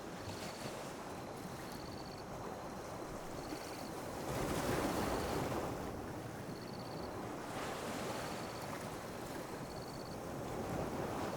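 Small ocean waves washing onto a beach, a steady rush that swells and falls back, with the loudest wave about four to six seconds in. A faint, short, high chirp repeats about once a second.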